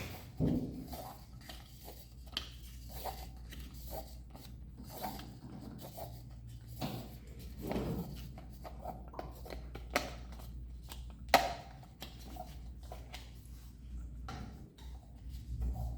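Homemade cup helicopter being handled: scattered rubbing and rustling with short sharp clicks, the loudest about half a second in and twice between 10 and 12 seconds in, over a low steady hum.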